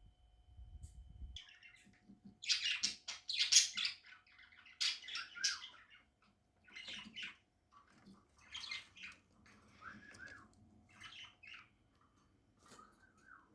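Budgerigar chattering in a run of short squawks and chirps, loudest two to four seconds in.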